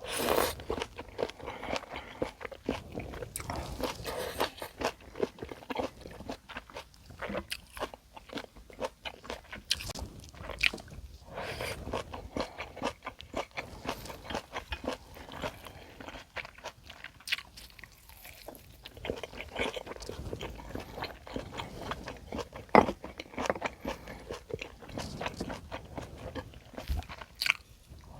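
Close-miked eating sounds: a person chewing and biting food, with irregular crunchy clicks throughout.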